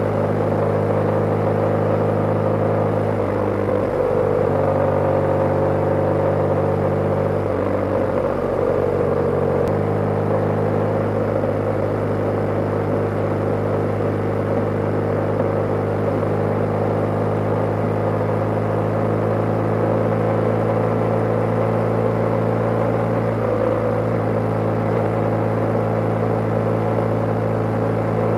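BMW motorcycle engine running steadily while riding, with a few changes in engine speed: about three seconds in, near ten seconds, and again near twenty-three seconds.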